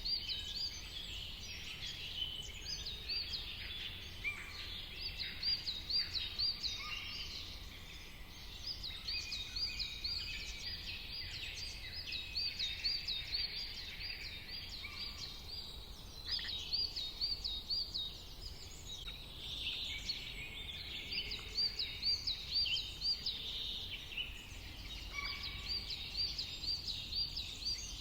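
Several songbirds singing and calling over one another. One bird repeats a quick run of high, rising-and-falling notes every few seconds, over a steady low rumble.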